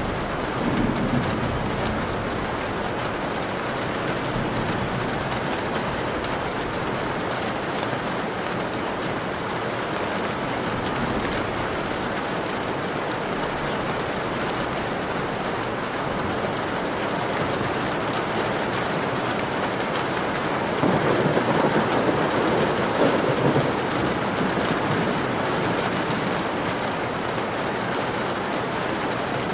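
Steady heavy rain pattering on a window, with thunder rumbling low, briefly just after the start and more strongly about three-quarters of the way through.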